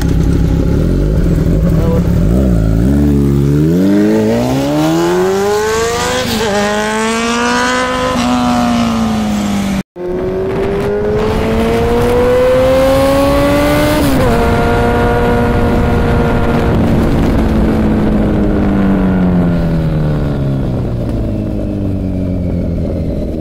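Kawasaki Z900's inline-four engine through an Akrapovic Shorty titanium full-system exhaust, accelerating hard with the pitch climbing. After a brief break it climbs again, drops sharply once as it shifts up, then holds and falls away as the bike slows.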